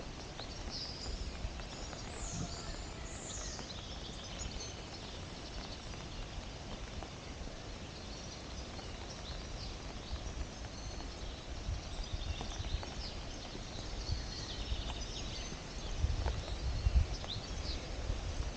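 Several birds chirping and calling in forest, some with short falling notes, over low irregular thuds of footsteps on the ground that get heavier near the end.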